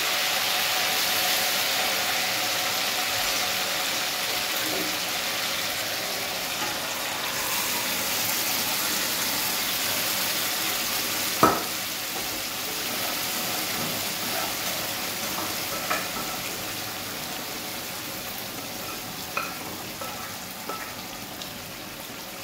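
Chicken, onion and tomato mixture sizzling in hot oil in a steel kadai as it is spooned in, the frying hiss slowly dying down. One sharp knock about halfway through, and a few light clicks later on.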